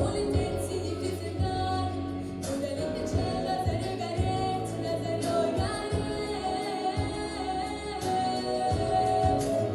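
A young girl singing a song, with long held, wavering notes over instrumental accompaniment with a steady beat.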